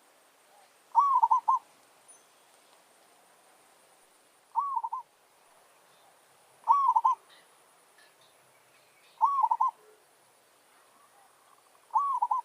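Zebra dove (merbok) cooing: a short run of quick, rising-and-falling staccato notes, repeated five times about every two to three seconds.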